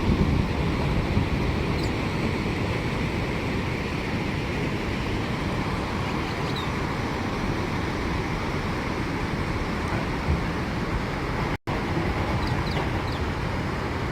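Ocean surf breaking on a beach: a steady, even rush of noise, briefly cutting out near the end.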